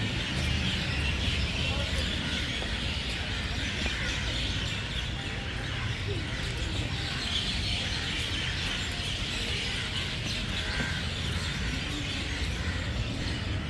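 A flock of parrots calling and chirping in a steady, busy chatter over a low background rumble.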